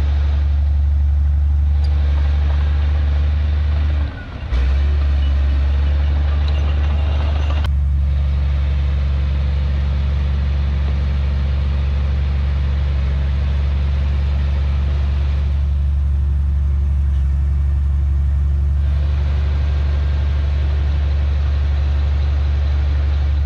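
Heavy diesel engine of earthmoving machinery running steadily with a deep, even drone, dropping out briefly about four seconds in.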